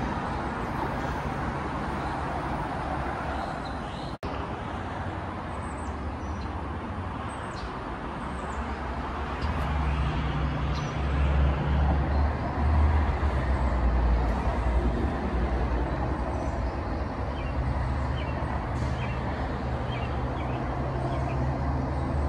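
Low rumble and hum of a MARTA rapid-transit train approaching along elevated track, growing louder about ten seconds in. A brief drop-out about four seconds in.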